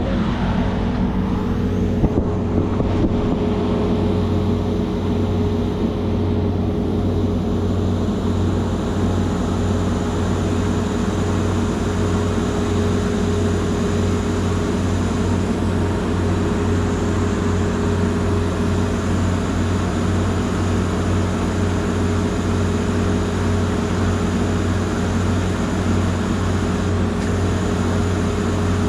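Heavy machinery engine running steadily at a constant speed, with a few knocks about two to three seconds in.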